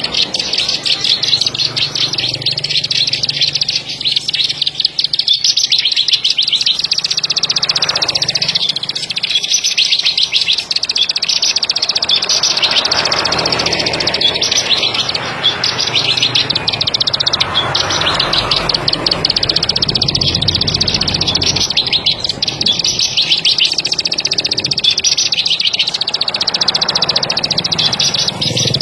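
Ciblek sawah (plain prinia) singing: a fast, continuous run of high, rapidly repeated notes that does not break, with some low background noise rising and falling under it.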